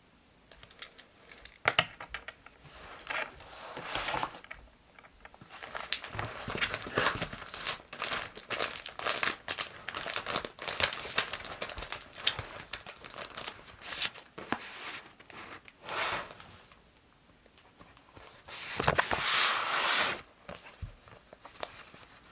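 Paper and stationery being handled: irregular crinkling and rustling with small taps and clicks, and a longer, louder crinkle near the end.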